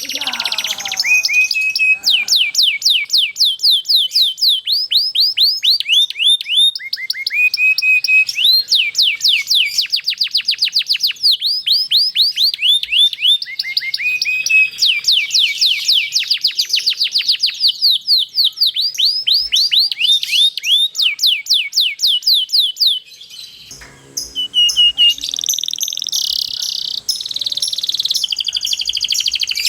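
Domestic canary singing long rolling trills: fast runs of repeated high, downward-sliding notes, the phrase changing every second or two. Near the end the song breaks off briefly, then resumes as a denser, buzzier trill.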